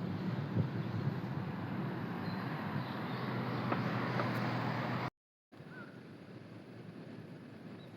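Outdoor wind noise on the microphone with a low, steady engine hum. The sound cuts out completely for a moment about five seconds in, then comes back quieter, without the hum.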